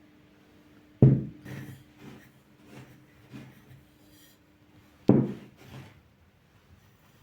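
Two sharp knocks about four seconds apart, with lighter knocks and rubbing between them: household items being set down and moved about during kitchen cleaning. A faint steady hum runs underneath.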